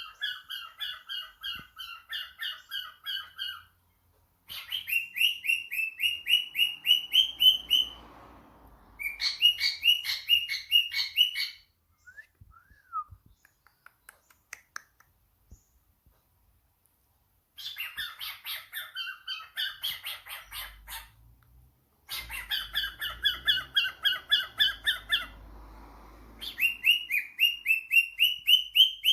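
Pet cockatiel chirping in rapid trilled bouts of several seconds each, about five high chirps a second, with pauses between bouts.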